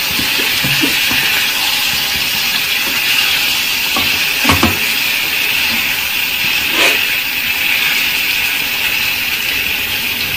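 Marinated chicken pieces sizzling steadily in hot oil in a frying pan, with a few short knocks from stirring, the loudest about four and a half seconds in.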